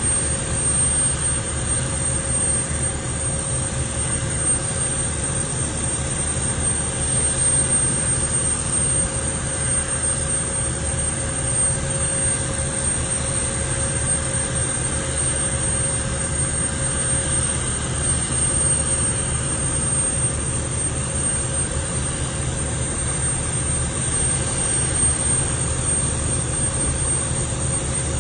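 Steady mechanical rumble with a constant hum, unchanging throughout, like vehicle or aircraft engine noise.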